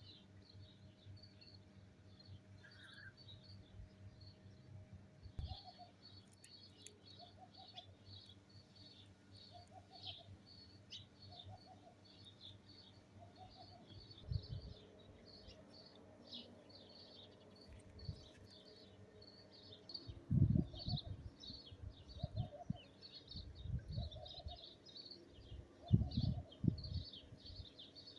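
Small birds chirping continuously, with a dove cooing in a steady series of soft notes about once a second. Low gusty rumbles of wind on the microphone come in about halfway through and are loudest in the second half.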